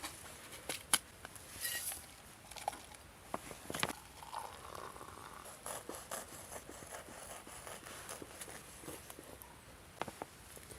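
Faint scattered clicks, taps and brief rustling of small objects being handled.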